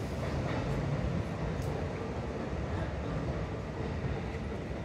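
Steady rumble of a Kintetsu electric train on the tracks, with a faint steady hum over it.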